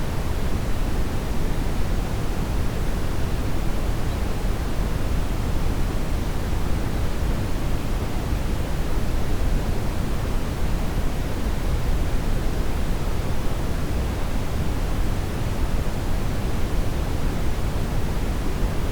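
Steady brown noise: an even, unbroken hiss with no rhythm or tone, strongest and deepest at the bottom and thinning out toward the top.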